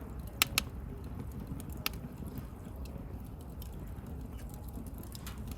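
Wood bonfire crackling over a steady low rumble of the flames, with two sharp pops close together about half a second in and another just before two seconds.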